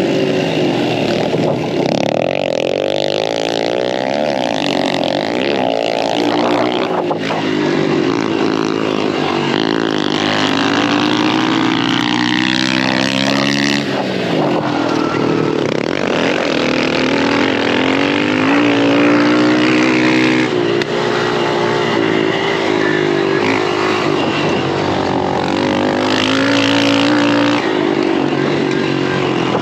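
Dirt bike engine revving hard and falling back, over and over, as it is ridden around a motocross track, with a steady rushing noise underneath.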